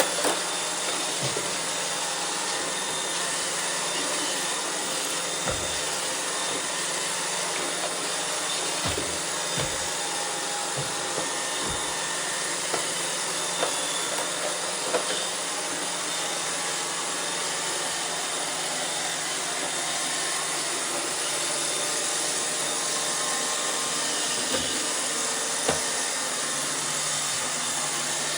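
iRobot Roomba 630 robot vacuum running: a steady whirring hiss from its vacuum motor and brushes over a low hum, with a few light knocks.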